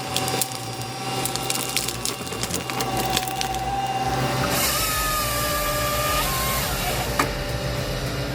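Wood cracking and splintering under a forestry machine, with a steady mechanical whine underneath. About halfway through, a hiss and a higher whine set in.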